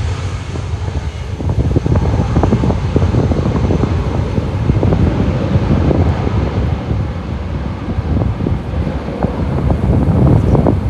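Strong, gusty typhoon wind buffeting the microphone: a loud, low, fluttering rumble that rises and falls with the gusts.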